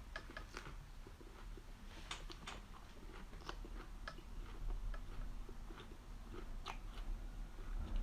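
Close-up chewing of raw bird's eye chilies, with irregular wet clicks and crunches from the mouth.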